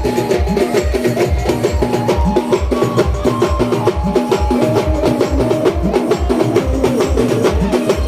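Timli band music: a bass drum beating about twice a second, with other percussion under a wavering melody line.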